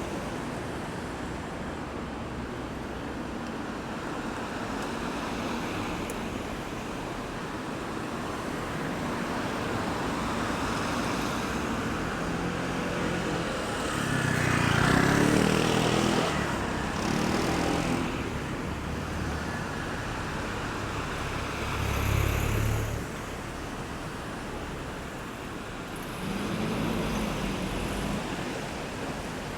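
Road traffic at a roundabout: a steady hum of cars and tyres, with a louder vehicle passing about halfway through, its engine note rising and then falling away, and further passes a few seconds later.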